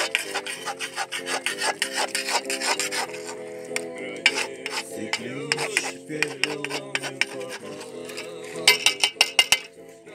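Quick, repeated scraping and rubbing strokes, with a louder flurry near the end, over a song playing in the background.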